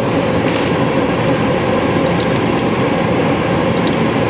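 Steady rush of a car's climate-control blower inside the cabin, with a held mid-pitched hum and a few faint clicks.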